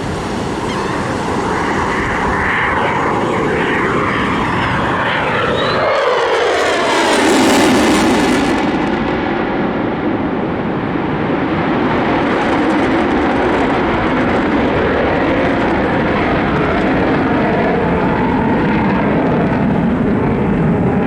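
Airplane flying a low pass. Its engine noise swells and peaks about seven seconds in, with the pitch falling as it goes by, then carries on as a steady, lower drone.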